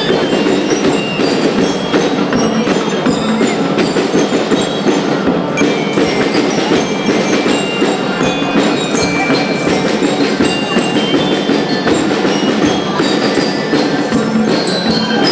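Band music with bright, ringing mallet percussion such as bell lyres (glockenspiel) playing a melody over a dense, steady wash of sound.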